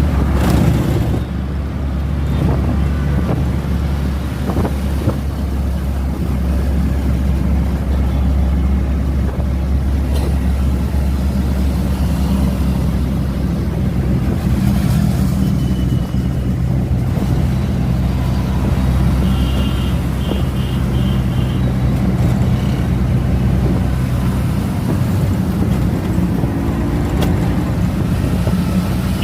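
Steady low rumble of a moving road vehicle's engine and running noise. About twenty seconds in, a quick run of four short high beeps.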